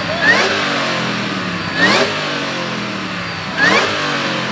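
Car engine revving in three short blips, each rising quickly and then dropping back toward idle.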